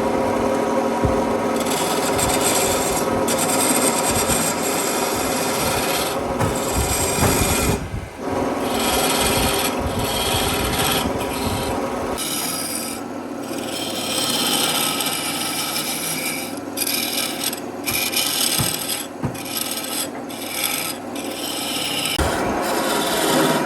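A power tool rasping against wood: a continuous abrasive scraping over a motor's steady hum, its texture shifting a few times as the tool is worked over the surface.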